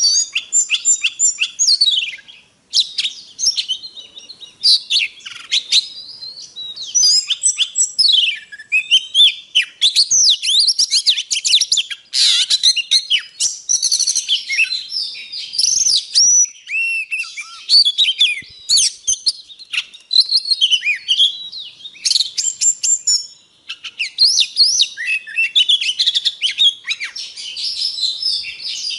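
Oriental magpie-robin singing a long, varied song of rapid whistled notes, sweeps and trills, with brief pauses between phrases.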